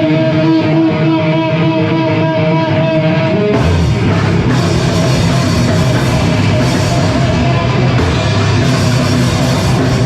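Live rock band playing loud: a held, ringing electric guitar chord, then about three and a half seconds in the full band crashes in with drums and heavy guitars.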